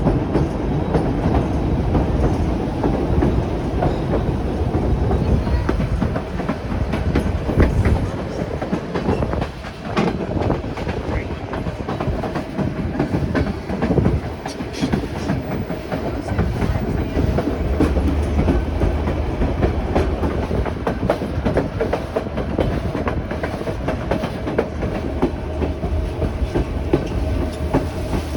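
White Pass & Yukon Route narrow-gauge train rolling along: a steady rumble of the cars with the wheels clattering over the rail joints, and a faint steady whine joining about halfway through.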